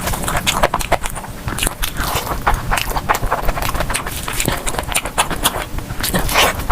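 Close-miked eating sounds: a person biting and chewing food, a dense, irregular run of sharp mouth clicks and crunches.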